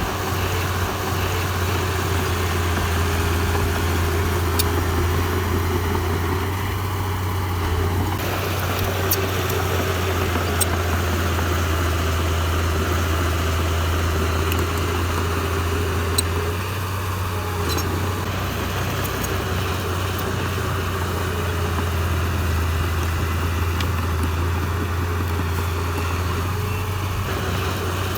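Heavy diesel engine of earthmoving machinery running steadily, with a strong, even low hum and a few faint clicks scattered through.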